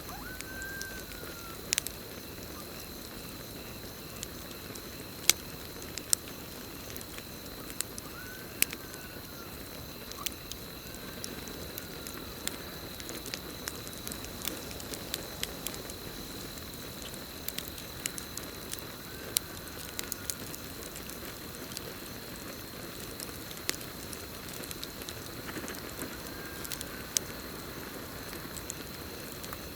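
Campfire burning with irregular sharp crackles and pops over a soft low rush, while crickets keep up a steady high trill. A few faint, short rising-and-falling calls come and go.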